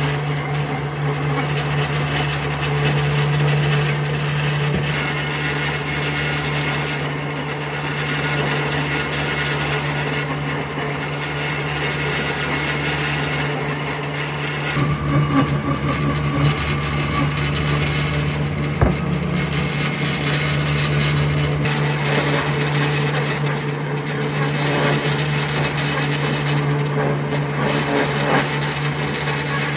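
An electric power tool running steadily as it works wood, with a single sharp knock about two-thirds of the way through.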